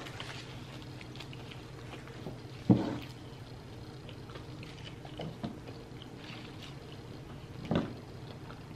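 Close-miked mouth sounds of people chewing fast food: faint wet chewing and small clicks, with two short louder mouth sounds about three seconds and eight seconds in, over a low steady hum.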